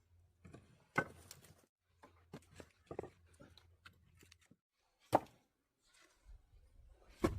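Wooden firewood logs knocking together as they are handled: several separate dull knocks, the sharpest about a second in and about five seconds in, with a faint low hum coming and going underneath.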